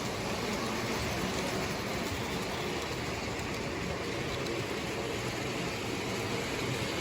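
Lionel O gauge toy train running on its track: a steady rolling rumble of wheels and electric motor.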